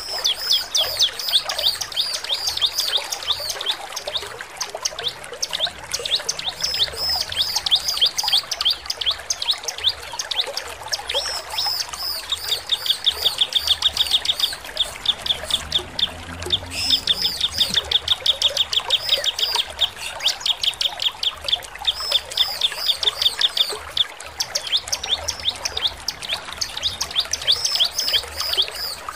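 Bar-winged prinia (ciblek) singing: long runs of fast, high, repeated chipping notes, with short pauses between runs.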